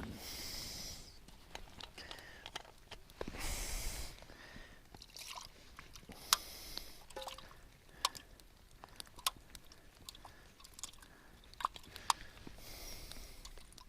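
A dog drinking water, a scatter of small wet lapping clicks, with a few short bursts of hiss.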